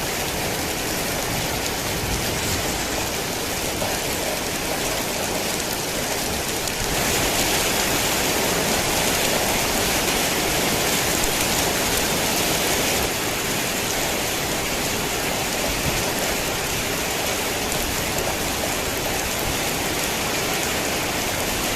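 Rain falling steadily, a dense even hiss of drops. It grows a little louder for about six seconds from around a third of the way in.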